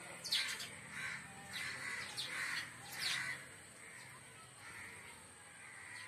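Birds calling: a run of short, harsh chirps, loudest and closest together in the first three seconds, then fainter and more spaced out.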